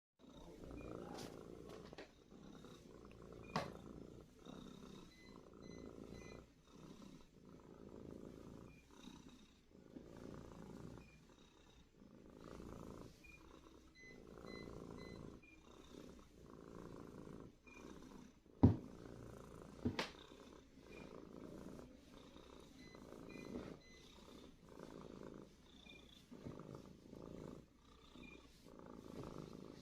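Domestic cat purring while it is massaged, the purr rising and falling with each breath. A few sharp clicks cut in, the loudest about two-thirds of the way through.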